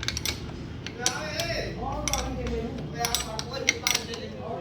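Steel hand tools clinking and knocking against metal steering and suspension parts: a scatter of short, sharp metallic clicks and taps, with muffled voices in the background.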